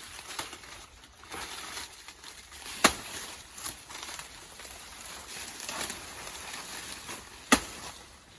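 Two sharp knocks, about four and a half seconds apart, over a background of rustling.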